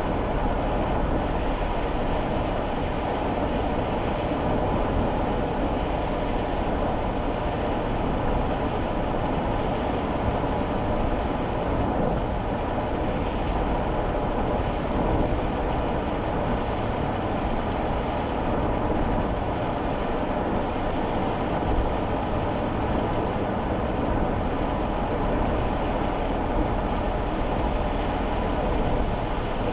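Steady road and tyre noise inside a kei car's cabin on a wet road, with the engine running underneath.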